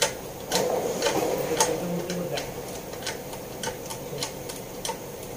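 Irregular series of short, sharp metallic clicks, about two or three a second, from hand tools at work on the engine.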